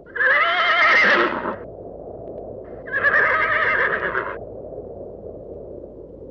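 Horse whinnying twice, each call about a second and a half long with a quavering, wavering pitch, over steady low background noise.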